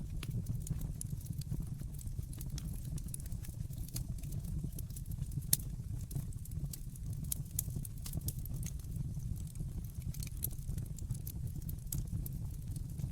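Wood fire crackling in a fireplace: a dense, irregular run of sharp pops and snaps over a steady low rumble of the flames, with one louder pop about five and a half seconds in.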